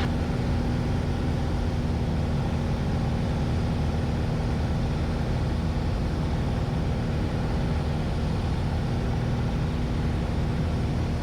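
Cabin noise of a Piper Warrior II in flight: its four-cylinder Lycoming engine and propeller drone steadily with a constant low hum.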